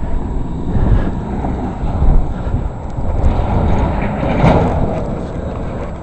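Wind gusting over the microphone in a snowstorm: a loud, uneven low rumble.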